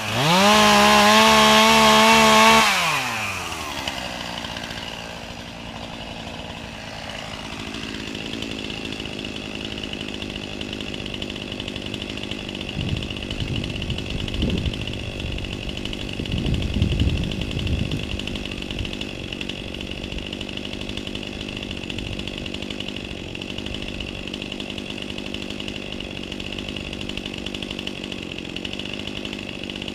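Chainsaw engine held at full throttle for about two and a half seconds, then dropping back to a steady idle. There are a few irregular knocks and rustles around the middle.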